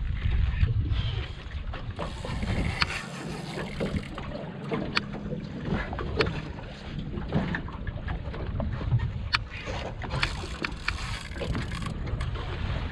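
Wind buffeting the microphone aboard a small boat, a low rumble with bursts of hiss and scattered sharp knocks and clicks.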